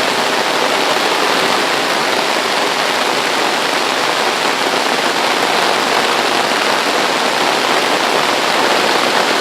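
Heavy rain falling on an umbrella held over the microphone: a steady, even rush of rain noise.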